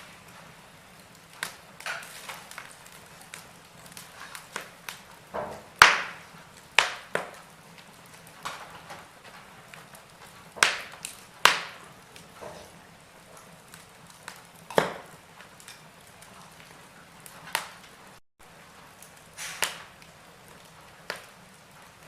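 Wood fire in a fireplace crackling: irregular sharp pops and snaps over a faint hiss, with a few louder pops about a quarter and half of the way through. The sound cuts out for a split second about two-thirds of the way through.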